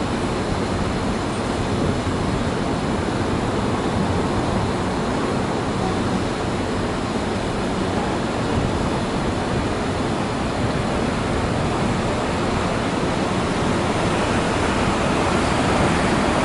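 A train running past on the rails, a steady rumble that grows slightly louder near the end.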